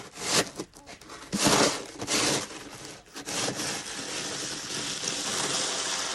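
Snow shovel scraping along the driveway through wet snow: a few short scrapes in the first three seconds, then one long continuous scrape as the snow is pushed.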